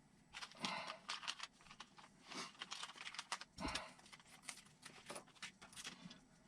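Small plastic kit parts and parts bags being handled: a faint run of irregular light clicks and crinkling rustles.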